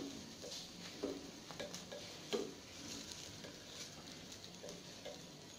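Tomato dosa frying in oil on a hot non-stick tava: a faint, steady sizzle with scattered small crackles and ticks, one a little sharper about two seconds in. The dosa is cooked through.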